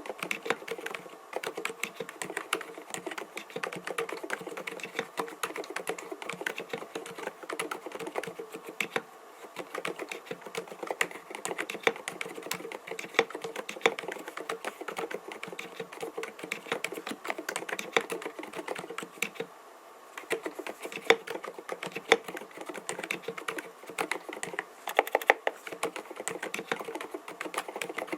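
Continuous fast typing on an mStone Groove T 87A mechanical keyboard with silent Milky linear switches (45 g): dense, muted, low-pitched key strokes, with a brief pause about two-thirds of the way through.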